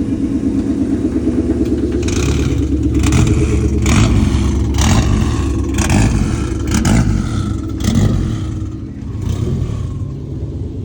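Car engine idling, then revved in a string of short blips, about one a second, starting about two seconds in.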